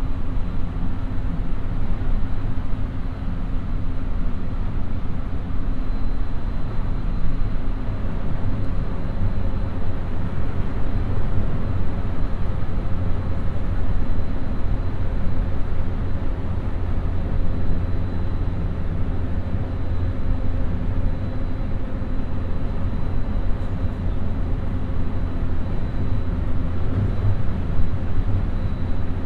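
A JR West 223-series electric train heard from inside the carriage while running steadily: a continuous low rumble of wheels on rail, with a faint steady high tone over it.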